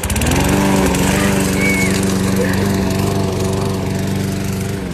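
Push lawn mower's small engine running steadily, its pitch rising briefly at the start, then stopping abruptly near the end.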